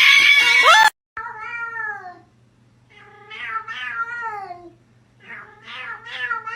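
A loud, harsh cry that cuts off suddenly about a second in, then a cat meowing in three long, wavering calls that fall in pitch.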